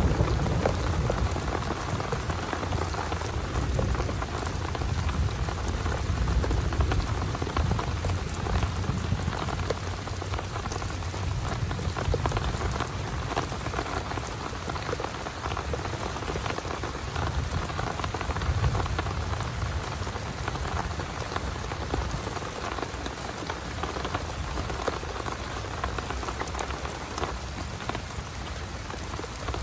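Heavy rain pouring steadily, a dense patter of drops striking a surface, with a low rumble underneath.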